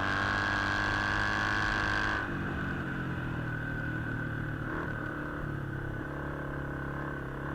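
Flat-track racing motorcycle's engine running under way, heard from the rider's helmet camera. About two seconds in the sound drops a little and turns duller, then runs on steadily.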